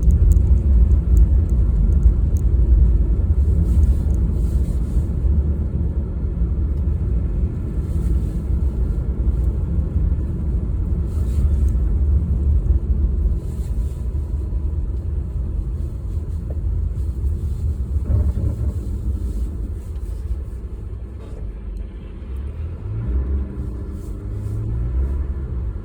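Car driving, heard as a steady low rumble of engine and road noise that eases slightly over time. Near the end a pitched engine note rises briefly.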